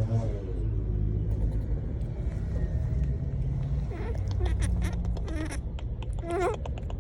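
Monkeys calling: a few short squeaky calls from about four seconds in, then a wavering call near the end, over a steady low rumble.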